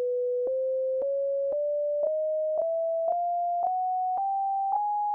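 Plain sine-wave tone from the Sylenth1 software synthesizer, played up the keyboard one key at a time, so it rises in even semitone steps about twice a second. There is a faint click at the start of each note.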